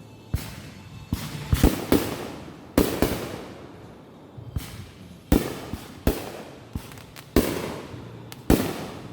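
Consumer fireworks going off in a rapid, irregular series of about a dozen sharp bangs. Each bang trails off with an echoing, crackling tail, and several come in quick clusters.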